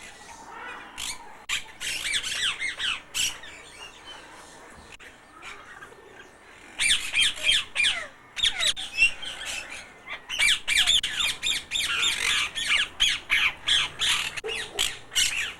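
A flock of parrots squawking, many shrill calls overlapping. A short run comes in the first few seconds, and a louder, busier run starts about seven seconds in and goes on.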